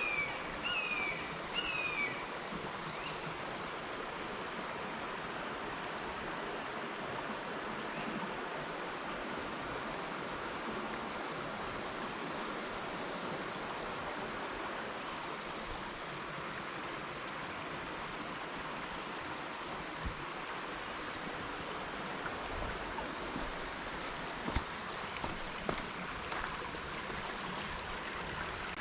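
Steady rush of shallow creek water running over rocks. A bird chirps several times in quick succession at the start, and a few light knocks come near the end.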